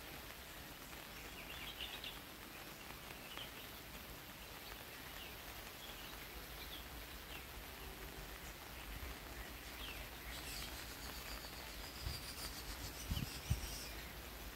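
Quiet outdoor ambience: scattered short bird chirps over a low, steady hiss. A faint high buzzing, like insects, joins after about ten seconds, and a few soft low thumps come near the end.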